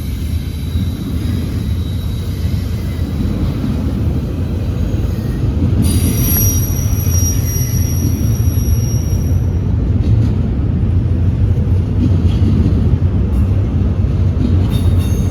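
Freight train rolling past: a steady rumble of wheels on rail, with thin, high-pitched wheel squeal that is strongest from about six to nine seconds in.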